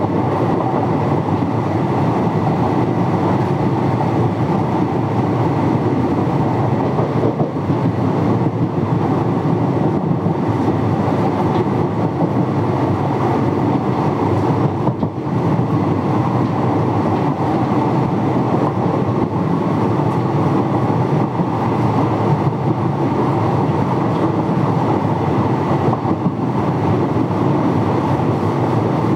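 Indian Railways express passenger coach running along the line at speed: a loud, steady rumble of steel wheels on the rails.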